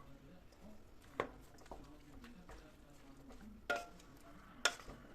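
Kitchen utensils and dishes clinking and knocking: four sharp taps spread over the few seconds, one ringing briefly like metal or glass, the last the loudest.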